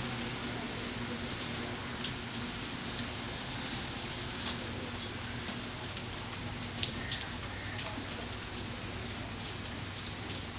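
Steady rain, an even hiss with many scattered sharp ticks of single drops.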